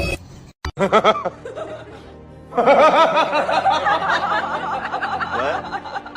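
Someone laughing hard, a quick run of high-pitched laughs starting about two and a half seconds in, after a brief voice-like sound near the start.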